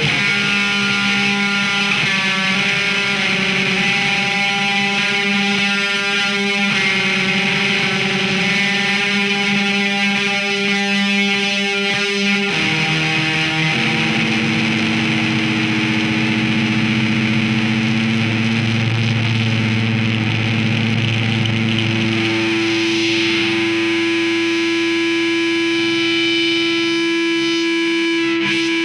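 Heavily distorted electric guitar through effects with some echo, holding long droning chords that change a few times, about 2, 7, 12 and 14 seconds in.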